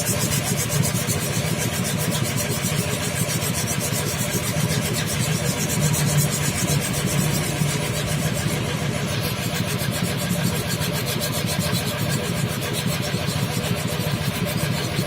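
Bored-up Vespa single-cylinder two-stroke engine running steadily, its rapid firing pulses holding an even pace.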